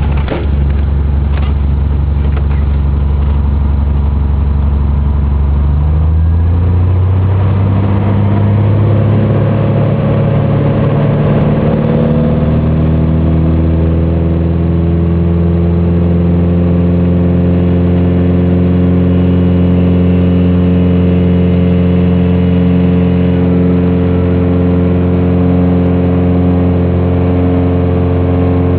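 Cessna 180's six-cylinder piston engine and propeller running steadily at low power, then from about six seconds in the pitch climbs over some ten seconds as power comes up for the takeoff, holding steady at full power.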